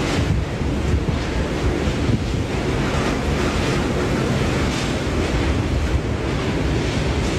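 Typhoon-strength wind buffeting the microphone: a loud, steady rushing roar with a heavy low rumble and uneven gusts.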